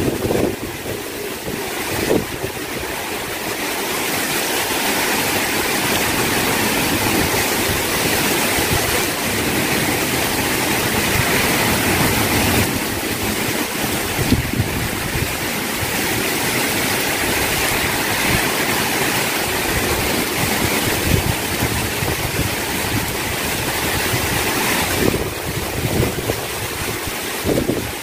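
Heavy rain pouring steadily, with wind gusting on the microphone.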